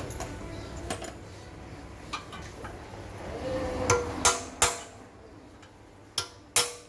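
About half a dozen sharp metal knocks at uneven intervals, the loudest about a second in, with more coming in the second half, as from a tool striking metal parts during a water pump repair.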